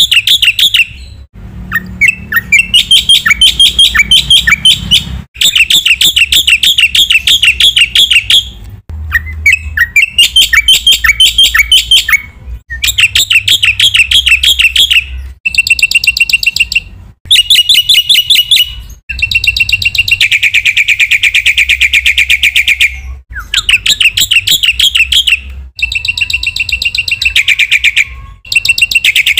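Black-winged myna (jalak putih) singing in fast chattering phrases of rapid repeated notes. Each phrase lasts about one to four seconds, and the phrases are separated by short, abrupt breaks.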